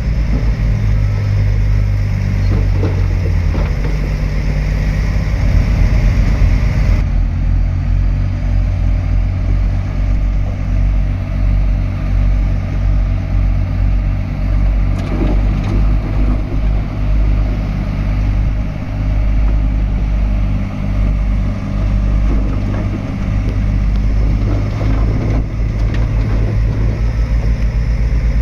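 Heavy diesel earthmoving machinery running with a steady low engine drone and a few faint knocks. The higher hiss drops away abruptly about seven seconds in.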